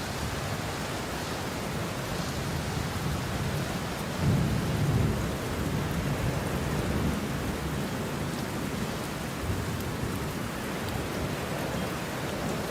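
Steady rain with a roll of thunder: a low rumble swells about four seconds in and fades away over the following few seconds beneath the constant hiss of the rain.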